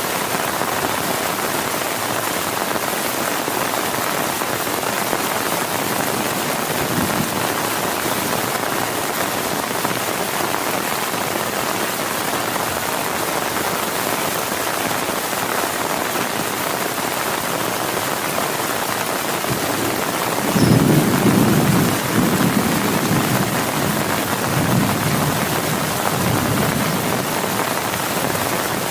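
Heavy rain pouring steadily on a tent. About two-thirds of the way through, a low rumble of thunder swells up, loudest for a second or two, then rolls on more faintly for several seconds.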